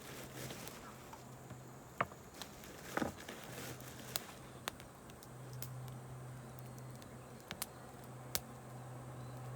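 Wood campfire crackling, with scattered sharp pops, the loudest about two and three seconds in, over a faint steady low hum.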